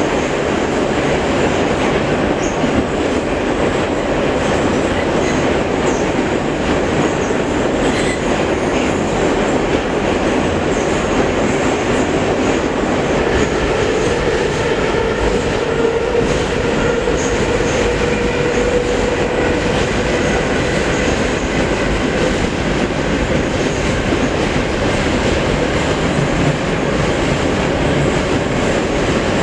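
Metro train running between stations: a steady, loud rumble of wheels on the rails, with a faint whine coming in about halfway through.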